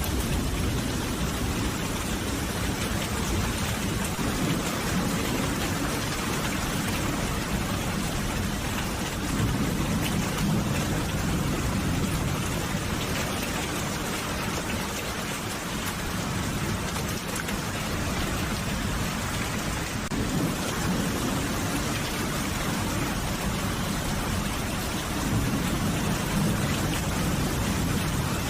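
Steady heavy rain falling on a surface, an even hiss of drops, with a low rumble swelling up twice, about a third of the way in and near the end.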